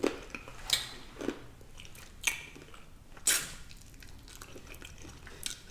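Close-up mouth sounds of someone chewing food, with about six sharp, wet smacks and crunches roughly a second apart over a quiet background.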